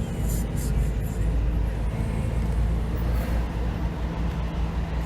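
Car on the move: steady low road and engine rumble.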